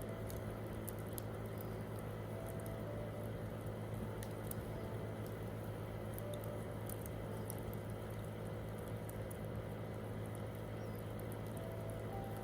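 Wood campfire crackling, with irregular sharp pops and ticks over a steady low hum, and a few soft, sparse piano notes.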